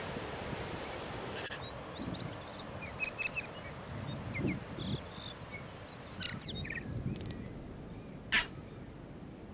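Wind noise on the microphone with surf behind for about the first second and a half, then birds chirping in many short, high calls over gusts of wind on the microphone. One louder, short harsh sound near the end.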